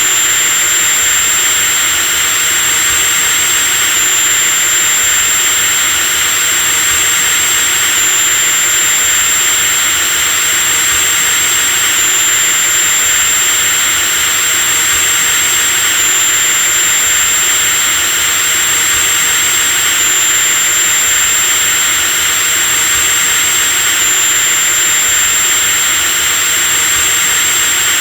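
Electric drill motor running continuously at constant speed: a steady high whine over a rushing hiss, with a small shift in the whine's pitch about every four seconds.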